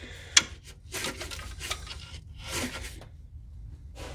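A 13 mm ratcheting wrench working the battery-terminal nut on an alternator: a sharp metal click about half a second in, then a few short ratcheting rattles and scrapes.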